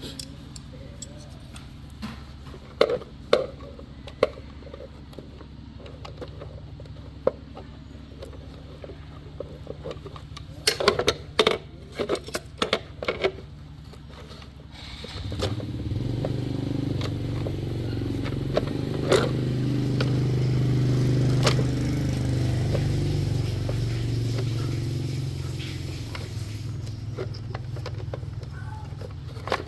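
A few sharp knocks and clicks of handling, then a low motor hum that swells in from about halfway, peaks, and slowly eases off.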